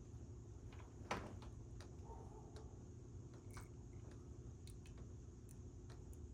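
Faint scattered clicks and light knocks, with one sharper tap about a second in, over a steady low hum.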